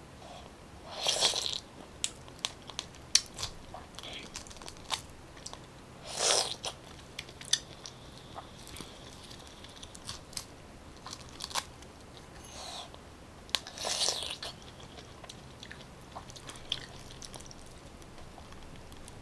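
Close-miked eating of fresh pineapple fruitlets pried off a peeled pineapple by hand: wet crunching and chewing, with many small sharp clicks. Three louder crunchy bites come about a second in, around six seconds and around fourteen seconds.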